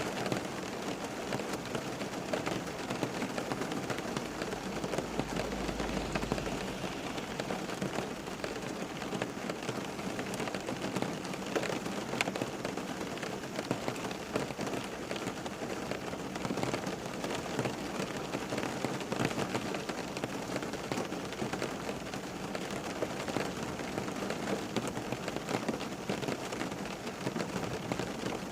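Steady rain falling on a surface, with many close drop impacts ticking through it. A brief low rumble comes in about five seconds in.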